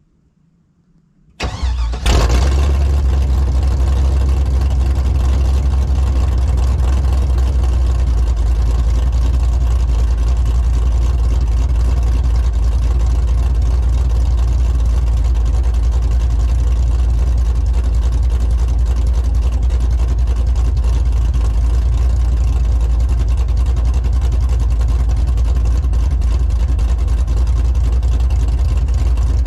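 Cammed 5.3-litre LM7 V8 with long-tube headers cranking over about a second and a half in, catching half a second later and settling into a loud, steady idle.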